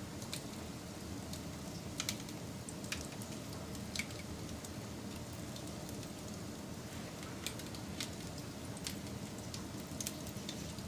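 Wood fire burning with a steady low rush of flames and irregular sharp crackles and pops.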